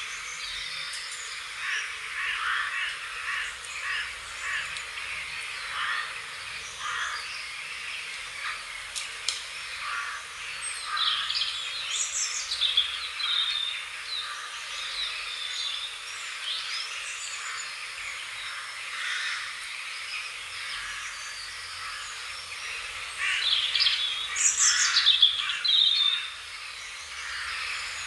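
Songbirds chirping and singing over steady outdoor background noise, with quick falling trills that grow loudest twice, about halfway through and again near the end.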